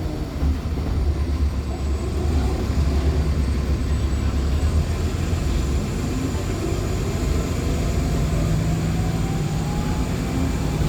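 Cabin sound of a NOVA Bus LFS articulated hybrid with a Cummins ISL9 diesel and Allison hybrid drive under way: a strong low engine drone that eases about six seconds in, a steadier low hum from about eight seconds, and faint whines gliding up and down in pitch.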